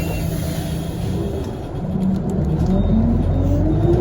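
Scania CL94UB city bus with a ZF automatic gearbox, its engine first running steadily and then, about a second and a half in, pulling away, with the engine and transmission note rising steadily in pitch and getting louder.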